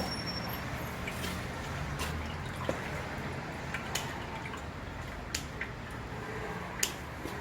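Engine oil pouring in a steady stream, with a few sharp small clicks scattered through it.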